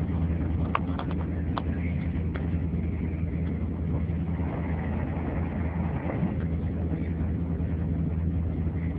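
Scania R620 V8 diesel engine idling steadily, a low even rumble with a few light ticks over it.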